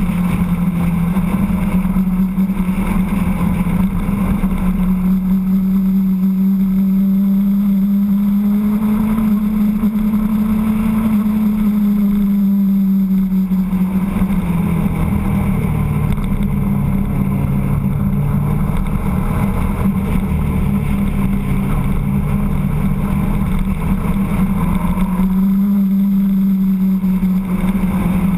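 Motorcycle engine running at cruising speed. Its steady hum rises a little in pitch about eight seconds in, eases back around thirteen seconds, and rises again near the end.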